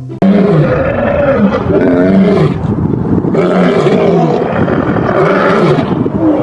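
Lion roaring: loud, long roars that rise and fall in pitch, several in a row.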